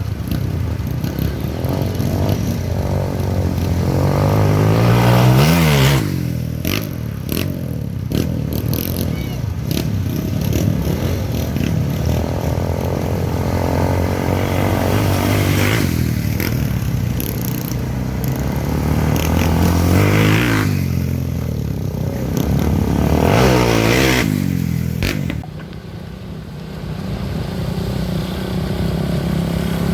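Off-road trail motorcycle engines revving hard as several bikes pass one after another. Each bike's pitch rises and then falls as it goes by, about four times.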